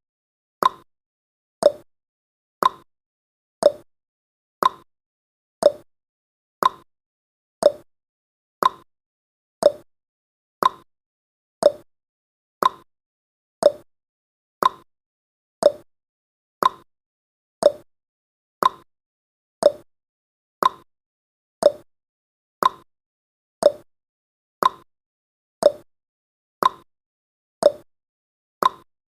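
Clock-tick sound effect of a countdown timer, one short sharp tick a second, evenly spaced.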